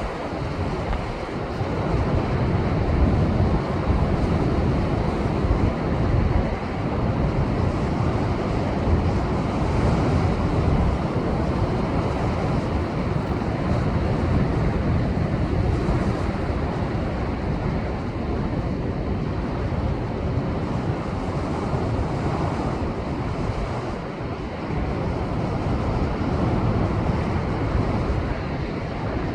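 Heavy storm surf left by a passing typhoon, breaking and washing against a rocky shore in a continuous rumbling wash that swells and eases, with wind on the microphone.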